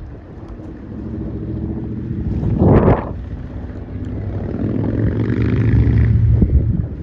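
An engine running close by, its steady hum swelling twice: a brief loud noisy flare about three seconds in, then a longer rise that falls away near the end. Wind noise is on the microphone.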